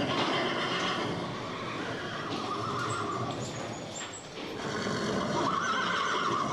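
An animal calling twice, two long calls, the second starting about five seconds in.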